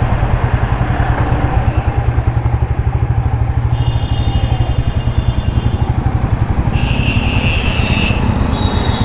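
Royal Enfield Classic 350's single-cylinder engine running with a steady, even low thump as the motorcycle rides off. Short high-pitched tones come and go a few times over it from about four seconds in.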